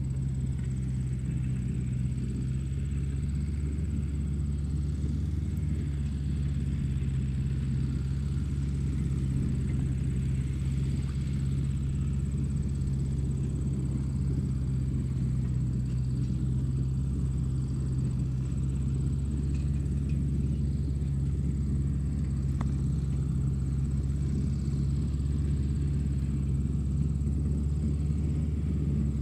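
A steady low mechanical hum with a faint high whine above it, unchanging throughout.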